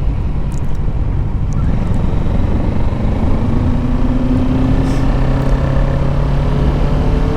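Kawasaki Ninja 650's parallel-twin engine running steadily while riding, under a heavy low rush of wind on the microphone.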